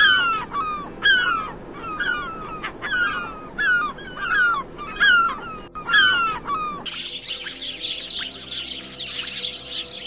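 A gull calling over and over, a string of loud cries about one a second, each sliding down in pitch. About seven seconds in the sound cuts to dense, high-pitched bird chirping.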